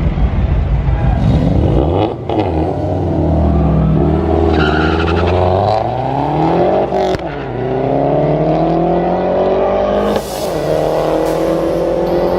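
Car engine accelerating hard through the gears: the pitch climbs steadily and drops sharply at each upshift, three times.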